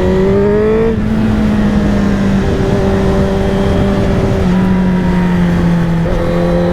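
Honda CBR1000RR-R's inline-four engine pulling under load: the revs rise, then drop with a gear change about a second in, and it runs on at a fairly steady pitch with small shifts in engine speed.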